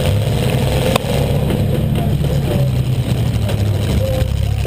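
A demolition-derby Buick LeSabre's 3.8-litre V6 running hard, heard from inside the cabin as a steady low rumble. A single sharp knock comes about a second in.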